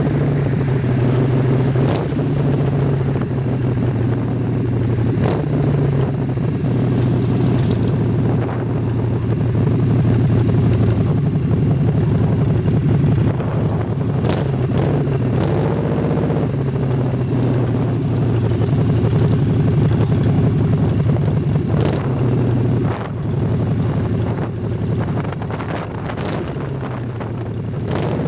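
A motor vehicle's engine running steadily on the road, with a strong low drone and scattered sharp clicks. A brief change in pitch comes about halfway, and the sound drops a little about three quarters through.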